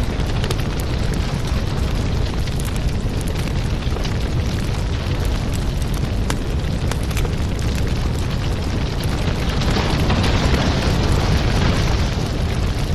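Crackling fireplace: a steady low rumble of burning wood with many sharp pops and crackles, swelling a little louder about ten seconds in.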